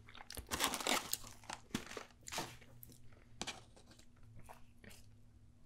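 Close-up crunching and chewing of crisp food by mouth: a cluster of crackly bites in the first couple of seconds, then sparser, quieter chewing.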